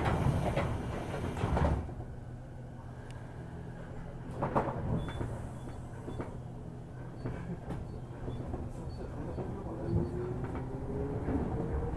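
Sliding doors of a JR 205-series commuter train closing with a hiss and a thump in the first two seconds, then a single knock a little later. Near the end the traction motors start a whine that rises steadily in pitch as the train pulls away from the stop.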